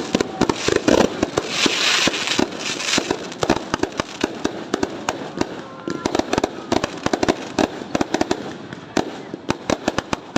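Fireworks going off: a dense, rapid string of sharp pops and bangs, with a burst of hissing crackle about two seconds in.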